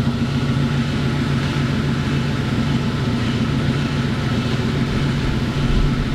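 A machine engine running steadily with a low, even hum, and a brief low thud near the end.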